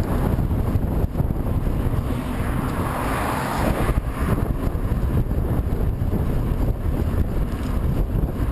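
Headwind buffeting the microphone of a camera on a moving bicycle, a steady low rumble with gusts swelling and easing.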